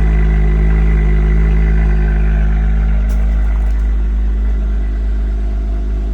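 Car engine idling with a steady, deep drone.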